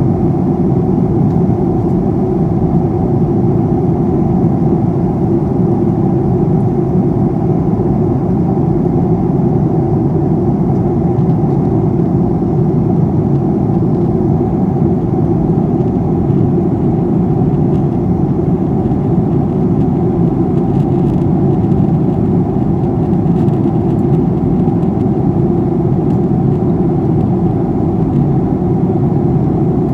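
Steady roar of engine and airflow noise inside the passenger cabin of a Boeing 737-800 in flight, with no change in level.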